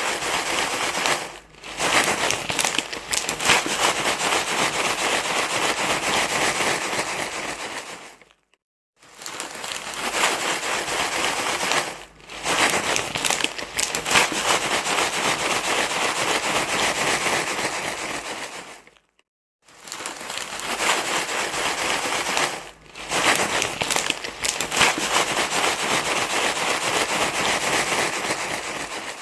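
Loud, dense rustling and crinkling, like something being crumpled, repeating in stretches of about eight to nine seconds with two short silent breaks.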